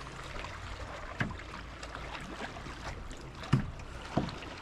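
Water lapping and sloshing around a drifting kayak over a steady low rumble, with three sharp knocks on the kayak, the loudest about three and a half seconds in.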